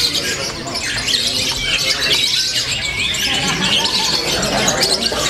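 Many caged lovebirds chirping and squawking at once, a dense, unbroken chorus of short high chirps and squeaks.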